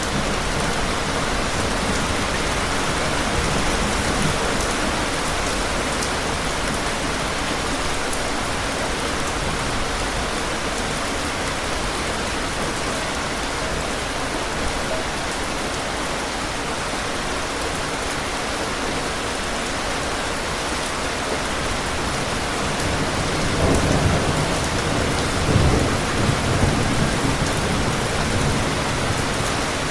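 Steady rain falling, with low rumbles of thunder about three-quarters of the way through.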